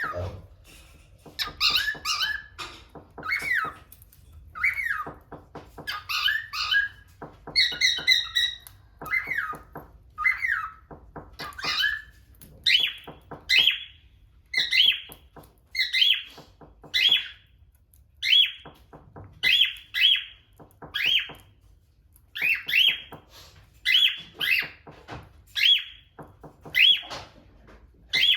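Cockatiels calling and whistling: a string of short, shrill chirps and whistled notes. The calls are varied and overlapping at first, then settle into a regular call about once a second.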